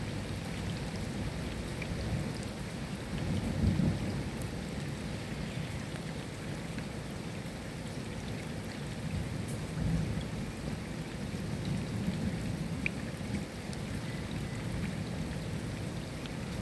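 Steady rain falling, with low thunder rumbles swelling about four seconds in and again around ten seconds.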